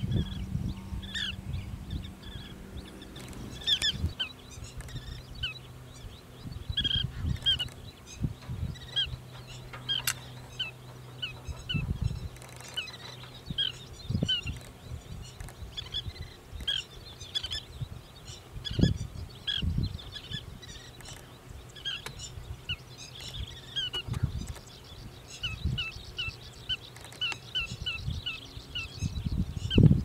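A bird calling over and over, short sharp notes at about one to two a second, with a faint steady low hum underneath and now and then a low thump.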